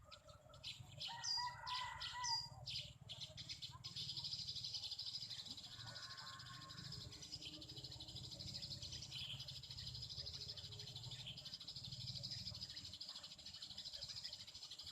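Eurasian tree sparrows chirping: a run of short, high chirps in the first few seconds, then a steady high-pitched chatter.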